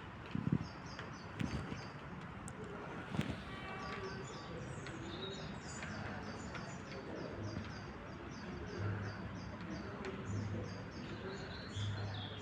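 Small songbirds chirping in quick series of short, high repeated notes. A few low thumps in the first three seconds, and a low hum that comes and goes in the second half.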